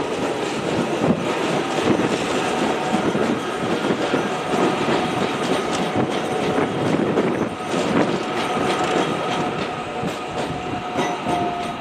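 Auckland AM class electric multiple unit running past on the tracks: a steady wheel-on-rail rumble with scattered rail clicks and a faint steady whine, easing off slightly near the end as the train pulls away.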